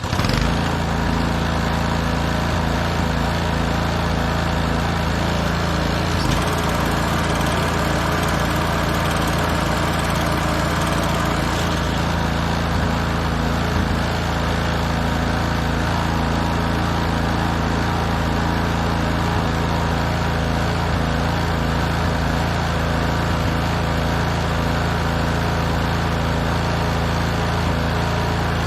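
Honda HS720 snowblower's small single-cylinder engine running at a steady speed, its governor freshly reset after it had been set wrong.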